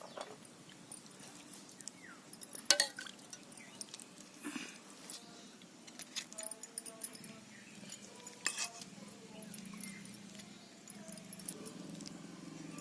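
Scattered light clinks and clatters of metal utensils and dishes, with a few sharper knocks, the loudest about a third of the way in.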